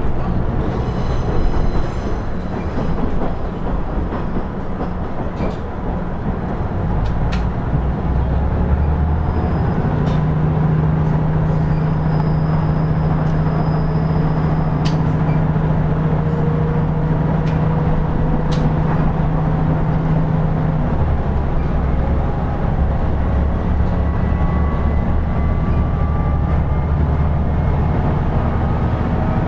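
Running sound of a KiHa 110 series diesel railcar (KiHa 112) heard from on board: the underfloor diesel engine drones steadily under load while a faint whine climbs slowly in pitch as the train gathers speed. The engine's low note changes about two-thirds of the way through, and there are occasional sharp clicks from the wheels and rails.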